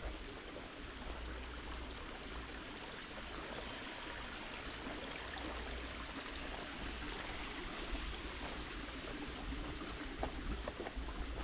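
A small stream running steadily: an even rush of water, with a few soft knocks near the end.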